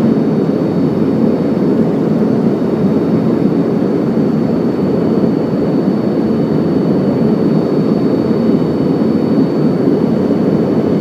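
Steady cabin noise of an airliner in flight: an even, unbroken rush of engine and airflow noise, with faint high steady tones above it.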